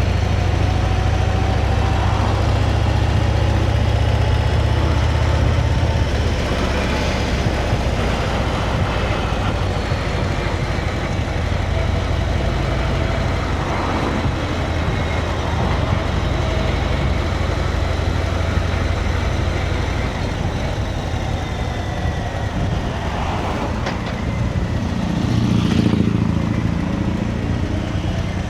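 Motorcycle engine running steadily while riding, under a constant rush of wind and road noise. About 25 seconds in, the engine note swells briefly.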